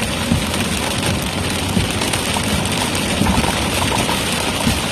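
Steady rain hitting the outside of a car while it drives, heard inside the cabin along with road noise.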